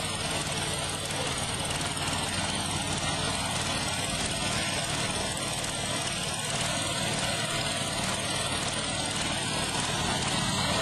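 Tractor engine running steadily, with a dense hiss over a low steady hum.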